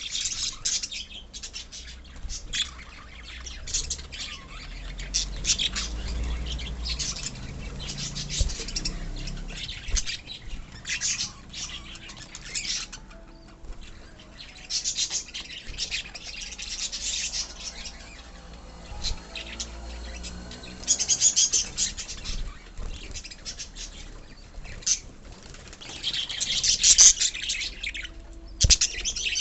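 A colony of lovebirds chattering and squawking shrilly, the calls coming in busy clusters with short lulls between them.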